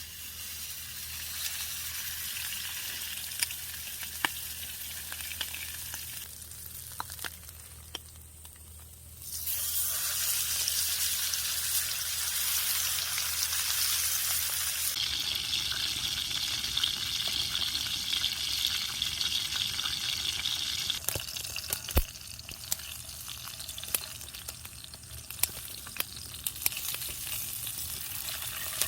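Food sizzling as it fries on a hot pan, a steady hiss with occasional sharp clicks. The sizzle gets louder about a third of the way in and changes texture a couple of times.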